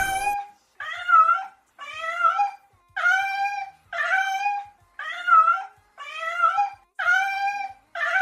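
A domestic animal crying about eight times, one cry a second, each cry pitched and bending up and down.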